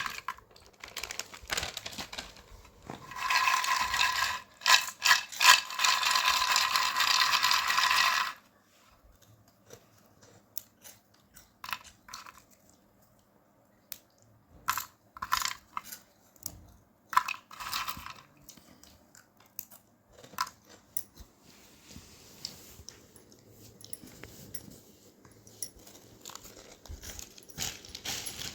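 Plastic snack packet crinkling and rustling loudly for about eight seconds, then quieter scattered crackles and clicks from the packet and the crisp corn snacks being handled.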